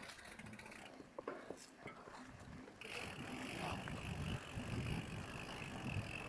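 Mountain bike on a trail: freewheel ratchet ticking and mechanical clicking from the bike, with a rumble that grows louder about three seconds in.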